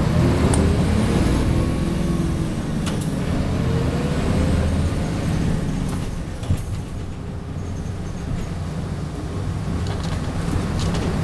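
Hino Blue Ribbon HIMR II hybrid city bus running in service, heard from inside the cabin: a deep drive rumble whose pitch rises and falls in the first few seconds, easing off around the middle with a brief knock, then running steadily again.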